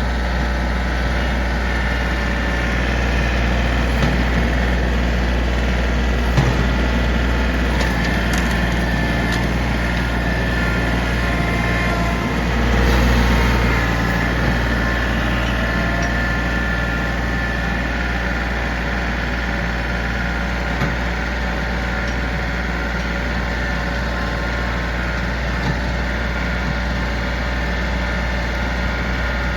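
Diesel engine of heavy land-clearing equipment running steadily, swelling briefly about twelve seconds in. A few short sharp cracks of wood sound over it.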